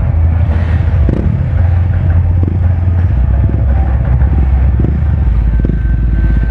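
KTM motorcycle engines running and revving in short rising bursts over loud, bass-heavy music.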